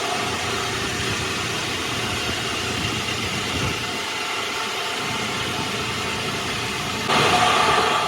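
An engine running steadily, getting louder about seven seconds in.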